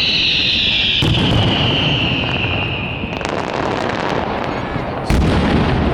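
Aerial fireworks going off. A high whistle slides slowly down in pitch and stops about three seconds in, a low boom comes about a second in, crackling starts around three seconds, and a sharp loud bang follows near the end.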